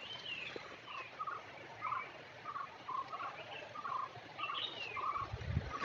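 Forest birds calling: a run of short, repeated notes about twice a second, with a few higher down-slurred whistles over them near the start and again in the second half.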